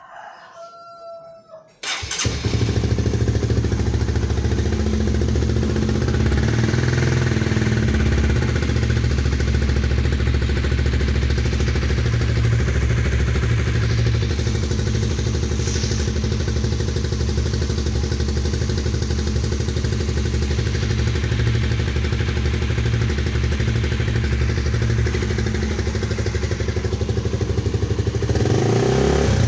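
Honda CBR motorcycle with an R9 Zeta slip-on exhaust and a dB killer fitted, started about two seconds in and then idling steadily. A rooster crows faintly before the engine starts.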